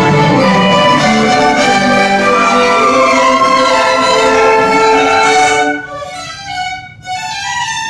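Orchestra playing, with the violins leading. About six seconds in, the sound drops to a much softer, thinner passage.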